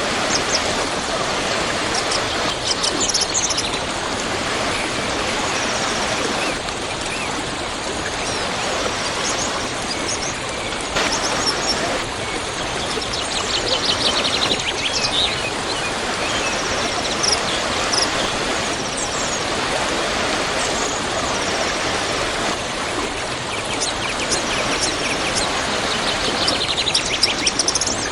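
A waterfall rushing steadily, with small birds chirping and trilling now and then over the water noise.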